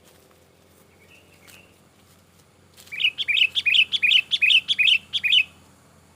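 Sooty-headed bulbul (kutilang) giving an excited, agitated chattering call: after a quiet start, a fast run of about a dozen sharp notes over roughly two and a half seconds, stopping abruptly.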